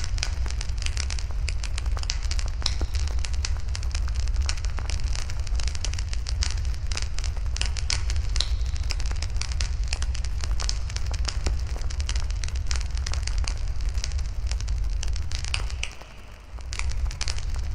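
Wood fire burning in a fire pit, crackling and popping in dense, irregular sharp snaps. A steady low rumble runs underneath and drops away for about a second near the end.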